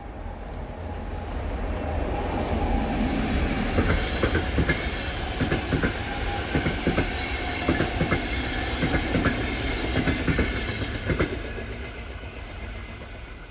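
Passenger train passing, its wheels clicking over the rail joints in a clickety-clack, often in pairs as each bogie crosses. It grows louder over the first few seconds and fades near the end.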